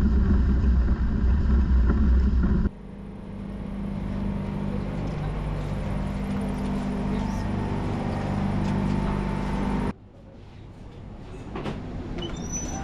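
Mazda BT-50 4WD ute driving on the road, engine and road noise heard in three cut-together clips. First comes a loud low drone. After a sudden cut, a steady engine note builds gradually. About ten seconds in, a cut drops to a quieter stretch.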